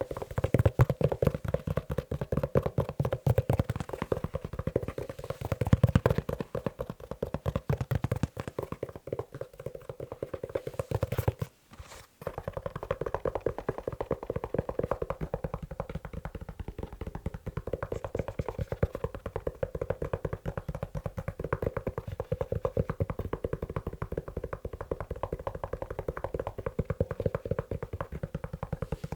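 Fast tapping on a leather shoe, many taps a second, with one brief pause a little before halfway.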